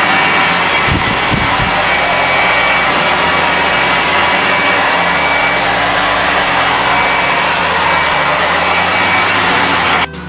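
A steady, loud rushing noise, like an air blower, that cuts off suddenly near the end.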